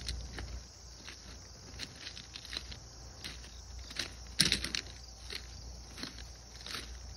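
Footsteps crunching on railroad track ballast at an irregular pace, with a louder cluster of crunches about four and a half seconds in.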